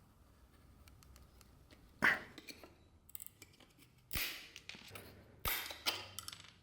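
Hand tools and small objects handled on a workbench: a short scrape about two seconds in, then sharp clicks each followed by a brief scraping or sliding sound, around four and five and a half seconds, with faint ticks between.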